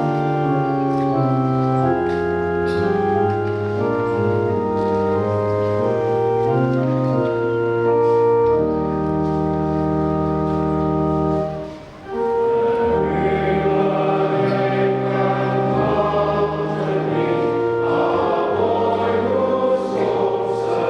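Organ playing a hymn introduction in steady held chords. After a short break about twelve seconds in, the congregation joins in singing the hymn with the organ.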